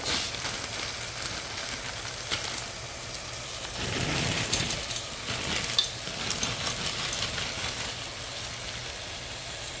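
Pot of gizzards and onions sizzling steadily on the stove as mixed vegetables are poured in from a bag, louder for a second or so about four seconds in.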